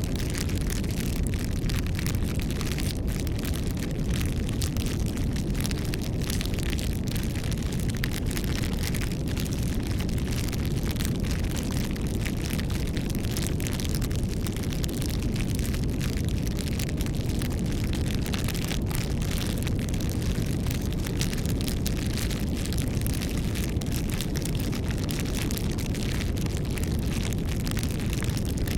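Wood fire burning: a steady low rush of flames with frequent small crackles and pops from the burning wood.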